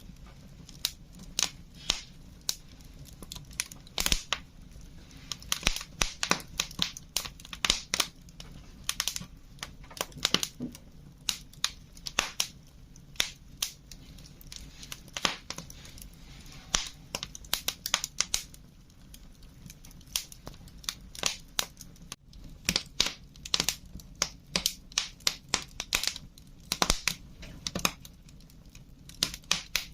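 Wood fire crackling, with irregular sharp snaps and pops, some in quick clusters, over a low steady hiss.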